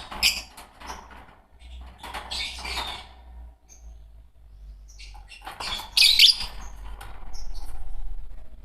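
Pair of Fischer's lovebirds chirping and squawking in three short clusters of shrill, scratchy calls, with a few single high chirps in between.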